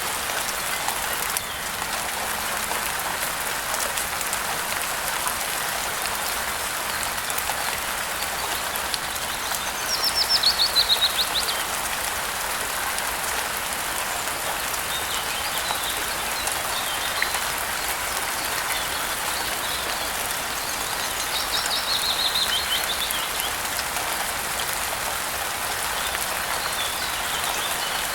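Steady rain hissing, with a songbird singing over it: twice, a quick run of high notes that falls in pitch, about ten seconds in and again about twenty-one seconds in, with fainter chirps between.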